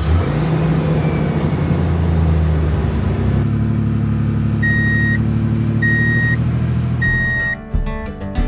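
Truck engine running steadily, stepping up in pitch about a third of the way in, with a warning beeper sounding three times, each beep about half a second long and a second or so apart. The engine cuts off near the end.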